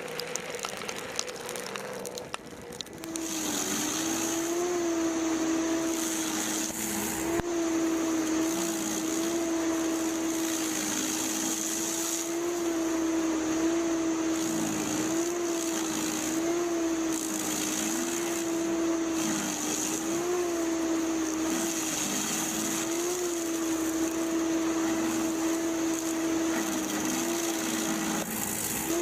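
A motor-driven machine running steadily with a constant hum and high hiss, its pitch wavering slightly; scattered clicks and rattling come before the hum settles in, about three seconds in.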